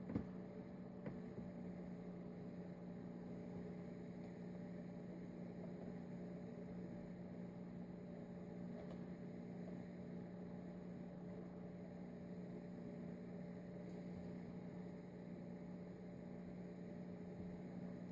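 A steady low hum, with a couple of faint clicks near the start.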